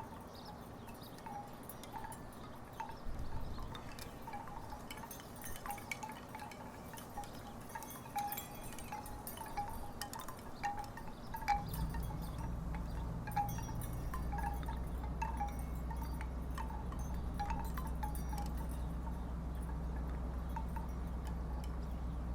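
Wooden tiki wind chimes knocking together irregularly in the breeze, short hollow wooden tones. About halfway through, a low steady rumble comes in underneath.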